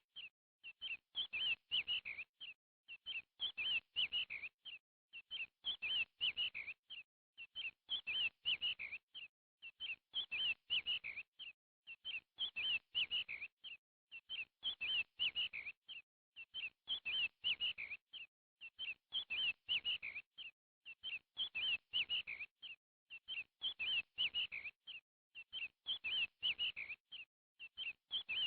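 Birdsong: a short phrase of quick, high chirps that repeats about every two seconds, the same phrase over and over, with silence between.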